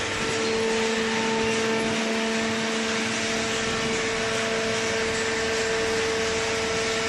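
Hydraulic cardboard baler's electric motor and pump running with a steady hum.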